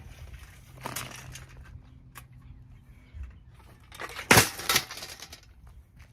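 Plastic housing of a Holmes box fan being smashed: a crunch about a second in, then two hard blows about half a second apart a little after four seconds in, the first the loudest.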